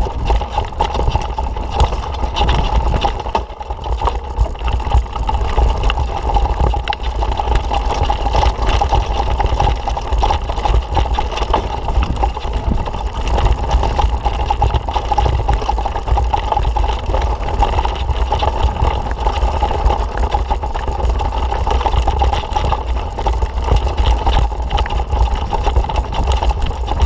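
Wind rushing over a camera microphone while riding a mountain bike: a loud, continuous low rumble with hiss that never lets up.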